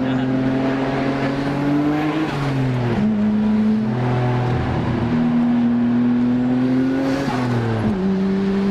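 Car engine heard from inside the cabin, pulling steadily with its note slowly rising, then dropping twice, about two and a half seconds in and again near the end, as the revs fall.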